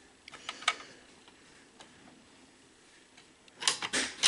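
Small sharp clicks and light scrapes of a hand tool against the plastic gears and metal parts of a VCR tape mechanism being taken apart. A few light ticks come in the first second, then a quick cluster of louder clicks near the end.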